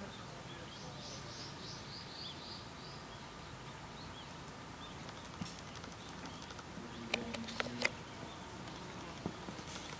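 A small bird calling a quick run of short, high notes, falling slightly, for about two seconds near the start, over faint outdoor background. A few sharp clicks or knocks come about seven seconds in.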